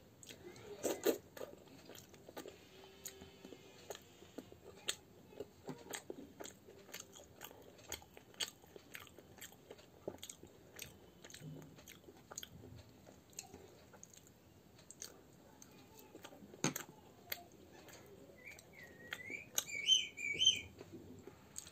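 Close-up chewing and biting of puri and kachori dipped in potato curry: a run of soft wet clicks and small crunches. Near the end, a brief high wavering squeal.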